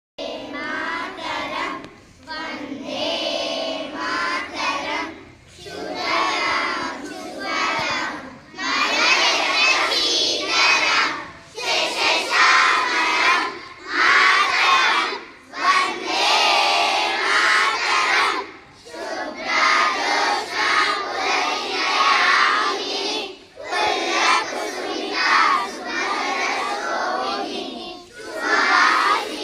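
A large crowd of children's voices raised together in loud phrases, each lasting a second or two with short breaks between them. It starts abruptly.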